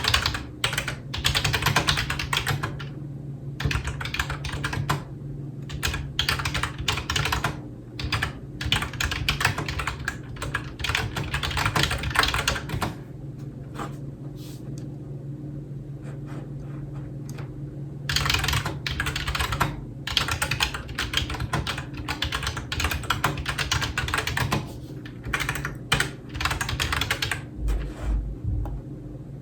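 Computer keyboard being typed on in quick bursts of clicking keystrokes, with a pause of several seconds about halfway through. A low steady hum runs underneath.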